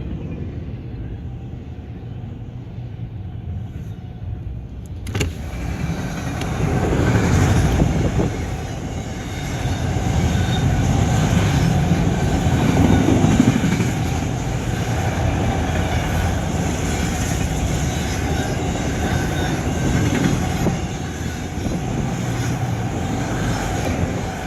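Freight train of autorack cars rolling past, with a steady low rumble and wheel-on-rail noise. There is a single sharp clank about five seconds in, after which the running noise gets fuller and higher.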